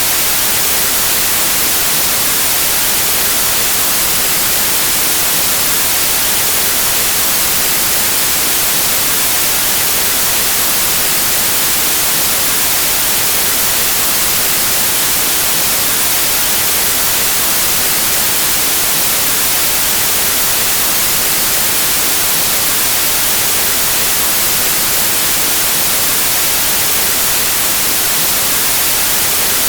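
Steady white noise: an even, unbroken hiss of static across the whole range, brightest in the highs.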